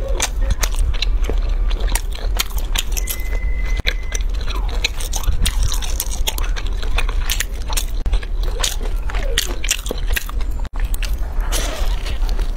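Close-miked biting and chewing of chewy grilled sweet-potato starch sheets (kao shao pi): many quick, sharp mouth clicks and smacks over a steady low hum.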